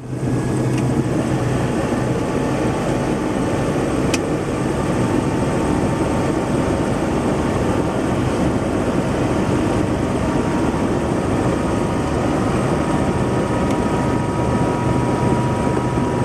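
Helicopter rotor and turbine noise in flight: loud and steady, with a strong low hum and a faint high whine.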